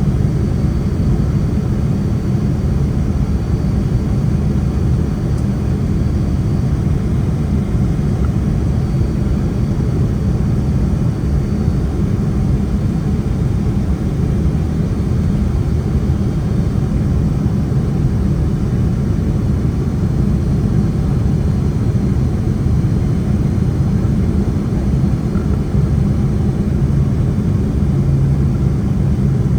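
Cabin noise of a Boeing 767-300 heard from a window seat: a steady, low rumble of engines and airflow with no sudden changes, a low hum growing a little stronger near the end.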